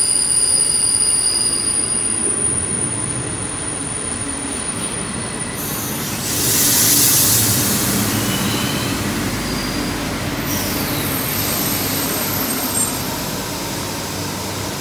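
A train moving slowly with high-pitched wheel squeal over a steady rumble, and a loud rushing hiss about six seconds in.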